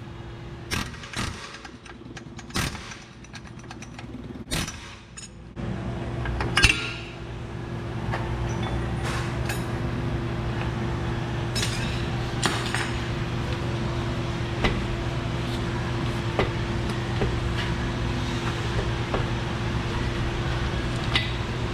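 Wrenches and metal parts clinking and knocking against the suspension as a control-arm bolt is worked out, with one sharp metal clank about six and a half seconds in. From about six seconds a steady machine hum runs underneath.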